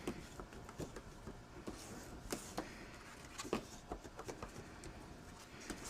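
Paper and cardstock being handled on a work surface: scattered light taps, clicks and soft rustles, several a second.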